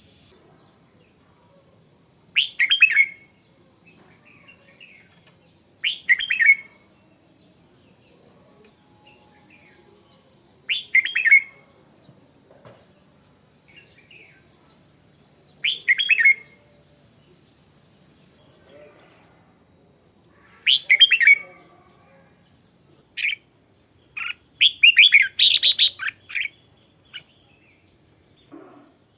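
Red-whiskered bulbul singing short, bright song phrases about every four to five seconds, with a quicker run of phrases near the end. A faint steady high-pitched whine runs beneath.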